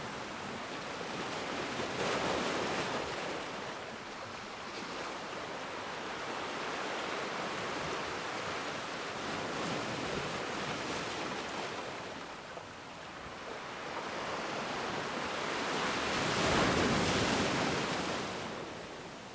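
Ocean waves breaking and washing on a shore, a steady surf wash with two swells, a smaller one about two seconds in and a larger one breaking near the end before it ebbs.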